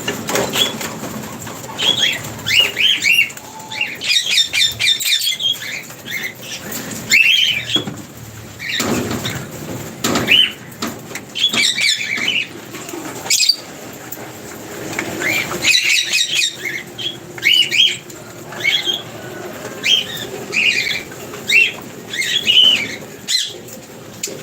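Lovebirds chirping in short, high, repeated calls, with wings fluttering between the calls.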